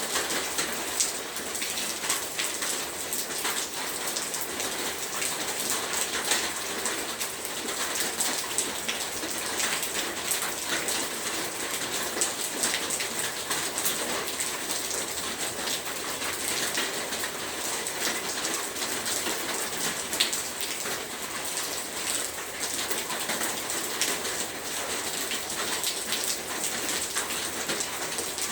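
Heavy rain falling steadily, a dense hiss with many sharp drop impacts on a surface.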